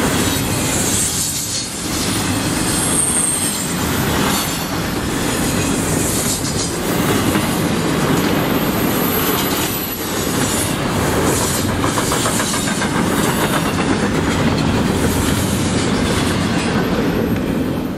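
Double-stack container freight train rolling past close by: a steady rumble of steel wheels on rail with repeated clicking over rail joints, and a couple of brief high wheel squeals in the first few seconds.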